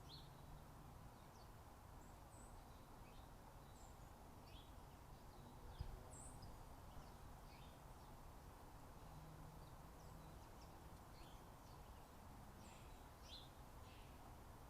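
Faint, scattered short bird chirps and calls over a steady low background hiss, with one soft knock about six seconds in.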